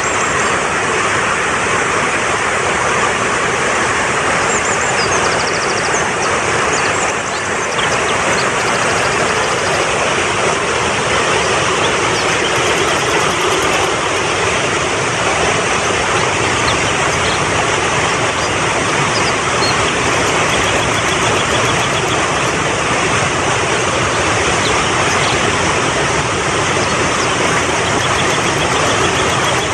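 Fast-flowing mountain stream, a steady loud rush of water, with faint high bird chirps now and then.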